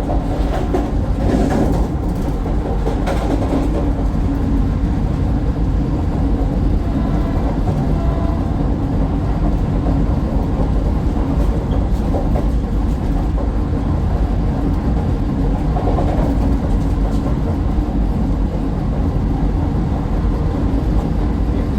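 Steady running rumble of a Vande Bharat Express electric trainset in motion, heard from inside a passenger coach.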